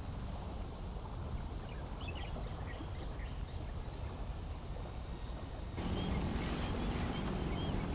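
Strong wind buffeting the microphone: a steady low rumble that steps up suddenly about six seconds in. A few faint, short high chirps come through twice.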